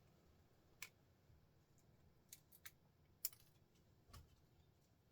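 Faint, sharp clicks, about five spread over a few seconds with the loudest a little past three seconds in: cutters snipping at a printer motor's soldered copper winding wire.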